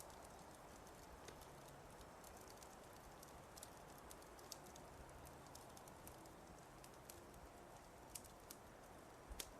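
Wood fire crackling softly: scattered sharp pops and snaps over a low steady hiss, with a few louder pops near the end.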